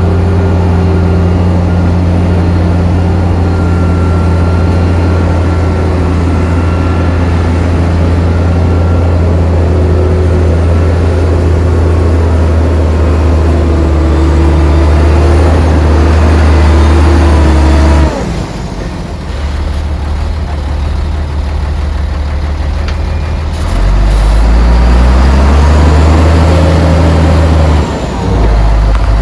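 Heavy diesel engine of earthmoving machinery running loud and steady, then dropping away suddenly about two-thirds of the way through. It revs up again with rising pitch near the end, with a brief dip just before the end.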